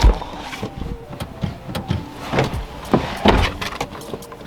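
Faulty Bose car audio system in a Mazdaspeed 3 making irregular pops and thumps through its speakers. It is an electrical fault that comes on when the ignition is switched on or off.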